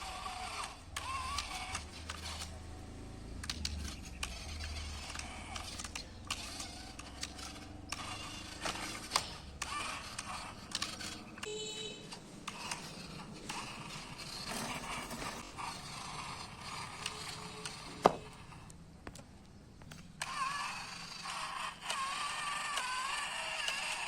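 Small geared electric motor of a radio-controlled model tractor, a whine that wavers in pitch as the load changes, with creaking and clicking from the plastic gears. One sharp loud click comes near the end, and the motor drops out briefly before whining again.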